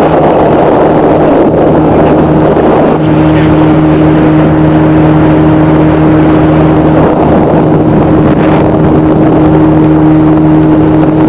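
Motorboat engine running at a steady speed with a constant hum, under a loud rushing noise of wind and water; the hum firms up slightly about three seconds in.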